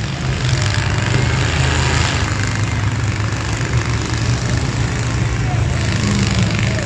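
Engines of several full-size trucks running hard together, a steady low drone with engine noise over it.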